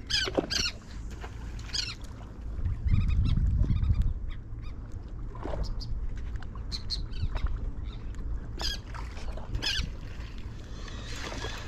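Birds giving short, high-pitched calls every few seconds over a steady low background of wind and water, with a burst of low rumble about three seconds in.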